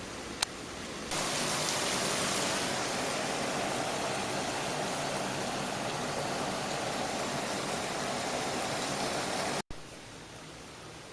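Hurricane wind and rain blowing steadily on the microphone as a dense rushing noise. About a second in it jumps abruptly louder, and near the end it cuts out for an instant and comes back quieter.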